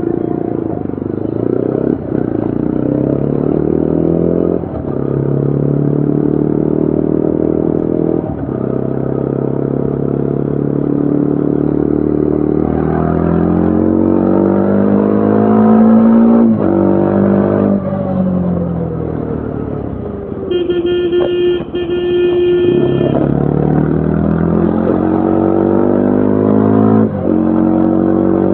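2025 Yezdi Adventure's single-cylinder engine and exhaust under way, the pitch climbing through the gears with a short dip at each upshift, then falling away as the bike slows. A horn sounds steadily for about two and a half seconds about two-thirds of the way in, then the engine pulls away again, climbing through the gears.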